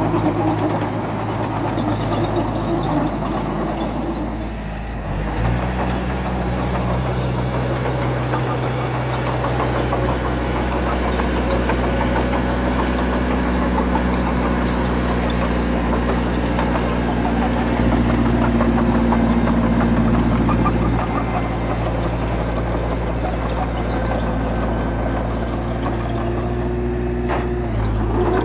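Diesel engine of heavy earthmoving equipment running steadily. Its note steps up about five seconds in and drops back just before the end.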